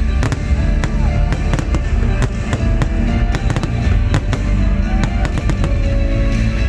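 Fireworks bursting in quick irregular succession, sharp bangs and cracks, over loud music.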